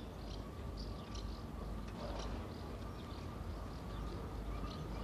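Small birds chirping, short high calls repeating a few times a second, over a steady low background noise.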